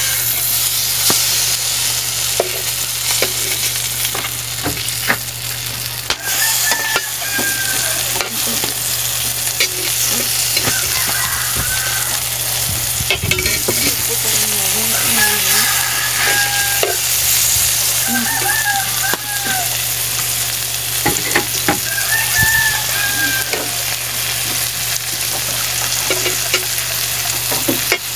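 Mushroom fritters sizzling steadily as they shallow-fry in oil in a wide steel wok. A slotted metal spatula scrapes and taps against the pan now and then as they are turned.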